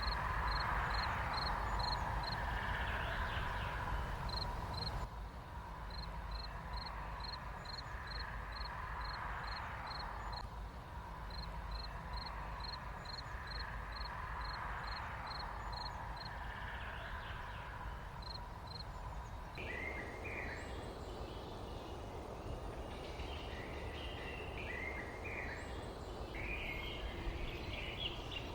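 Songbirds chirping outdoors: a short high call repeats about three times a second for most of the stretch, then livelier varied chirps take over near the end. A steady low rumble runs underneath.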